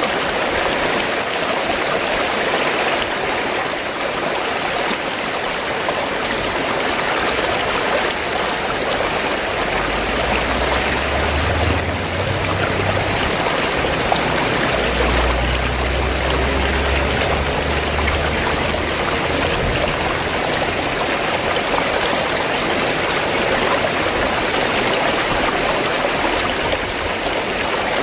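Fast-flowing stream rushing and gurgling steadily. A low rumble joins in from about a third of the way through until past the middle.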